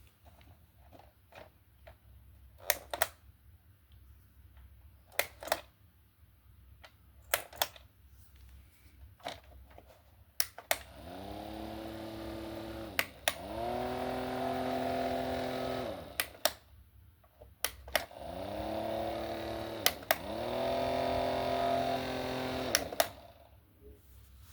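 Plastic switch clicking several times on a rechargeable fan-light. Its small electric fan then spins up with a rising hum, steps up to a higher speed at the next click, and winds down when switched off. This click, spin-up and wind-down happens twice.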